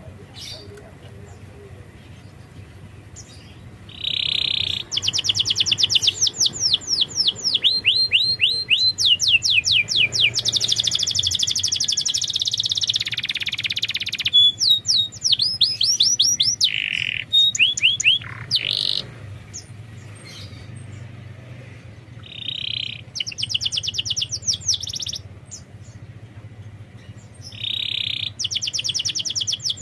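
Domestic canary singing in phrases: a short buzzy note followed by fast trills of high, rapidly repeated downward-sweeping notes, with brief pauses between phrases.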